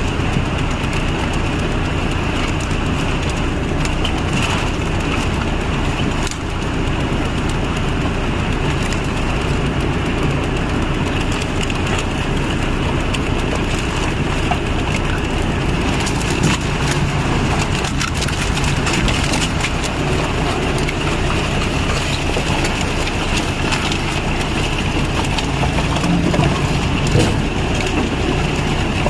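A machine's engine running steadily, with scattered cracking and crunching sounds over it.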